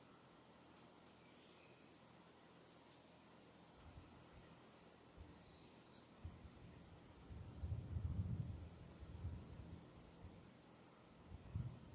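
Faint spring breeze outdoors: wind gusts rumbling low on the microphone, strongest about two-thirds of the way in and again at the end, under a run of short, high, rapid trills repeating every second or so in the distance, with one longer trill near the middle.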